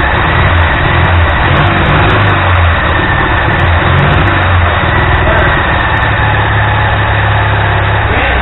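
Ural motorcycle's flat-twin engine running, its low note wavering unevenly for the first few seconds and then settling into a steady idle.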